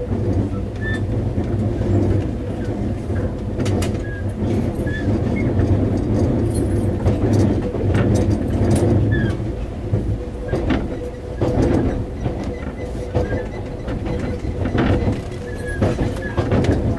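Taiwan Railway EMU400 electric commuter train running, heard from inside the passenger car near the floor: a steady low rumble with a constant hum, broken by scattered clicks and knocks.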